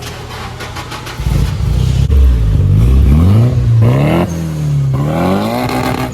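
Turbocharged Nissan SR20 four-cylinder car accelerating hard: the engine note climbs through a gear, drops sharply at a shift about four seconds in, then climbs again. A faint high whistle follows the shift, and the sound is described as a fat turbo sound.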